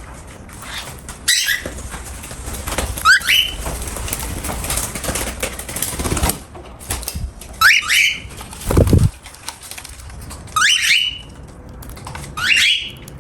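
Cockatiel giving about six short, rising chirps over a background of small crackling clicks from its eating. A single dull thump comes about nine seconds in.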